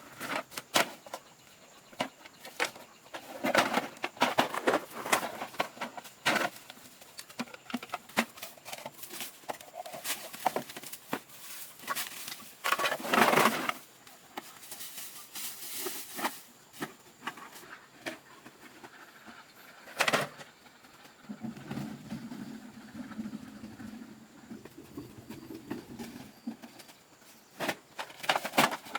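Irregular clattering, knocks and rustling of objects being handled, with a low drone lasting a few seconds in the latter half.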